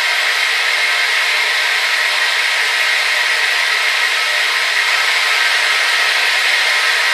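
Hair dryer running steadily: an even, unchanging rushing hiss of blown air and motor, strongest in the upper-middle range, with no deep rumble.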